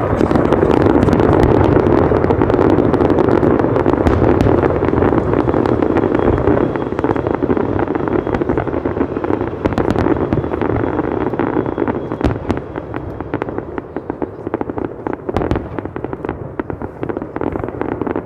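Fireworks going off in a dense, continuous barrage of rapid bangs and crackles, thinning after about seven seconds to scattered pops and bangs.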